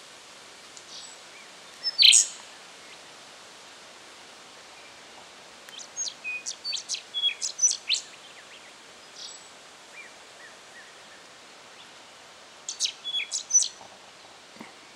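Rufous songlark singing in short phrases of rapid, sharp, high notes: a brief loud burst about two seconds in, a longer run of notes around the middle, and another near the end, over a steady background hiss.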